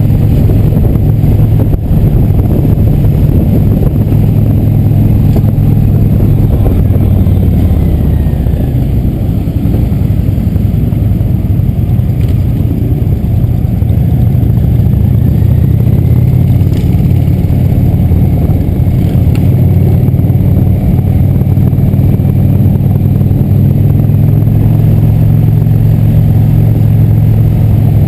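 Motorcycle engine running loud and steady at an even speed, its pitch holding level throughout.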